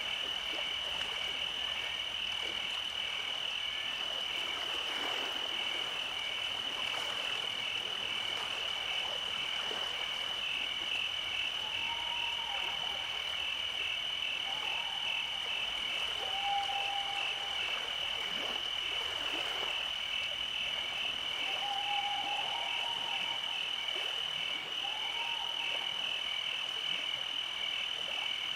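Summer night chorus of frogs and insects: a continuous, evenly pulsing high trill, with a few short, lower single calls in the middle and later part.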